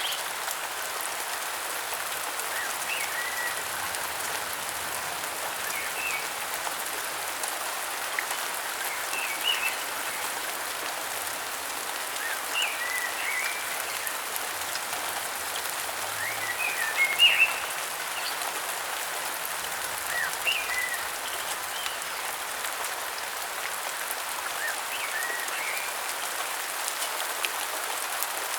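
Steady rain falling, with short high bird chirps breaking through every few seconds and a brief cluster of louder calls past the middle.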